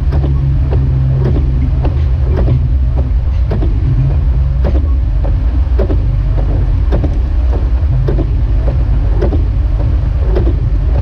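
Jeep Wrangler YJ driving, a steady low engine and road rumble, with a faint regular stroke about once a second.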